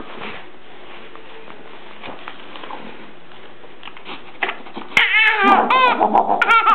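Eight-month-old baby squealing: a quick string of short, high squeals, each rising and falling in pitch, starting about five seconds in after a quiet stretch.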